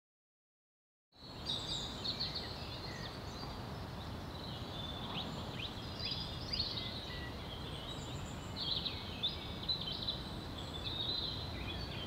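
Several songbirds singing, a busy mix of short high chirps and quick trills over a steady low background noise of outdoor ambience. The sound comes in about a second in, after silence.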